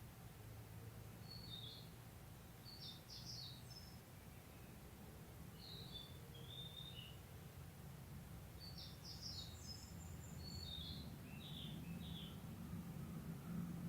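Small birds calling in short high chirps and quick trills, in scattered groups, over a faint low rumble that swells near the end.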